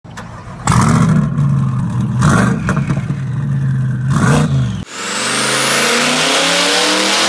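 Twin-turbocharged Chevrolet Corvette C8 V8 running at a steady pitch with several loud bursts. After an abrupt cut about five seconds in, it accelerates hard, the engine note climbing steadily with a thin high whine rising with it.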